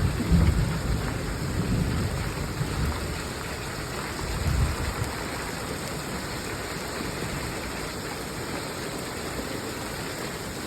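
Heavy rain falling steadily with low rumbles of thunder, swelling about half a second in and again around four and a half seconds, then the rain goes on alone.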